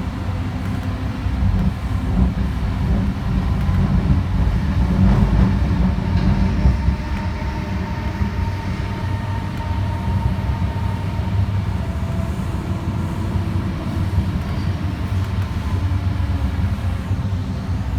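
Alstom Citadis Spirit light-rail train running along the track, heard from on board: a steady rumble of wheels on rail. A faint steady whine joins partway through and fades again.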